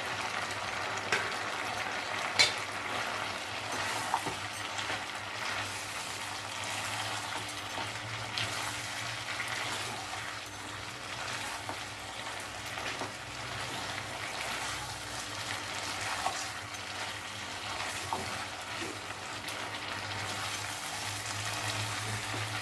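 Chicken pieces frying dry in a pan, their liquid cooked off, with a steady sizzle and a spatula scraping and clicking against the pan as they are stirred and tossed.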